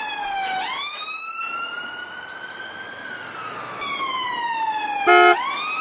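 Toy police jeep's electronic siren wailing: a single tone sliding slowly down and up, each sweep taking a couple of seconds. About five seconds in, a short, loud electronic beep sounds over it.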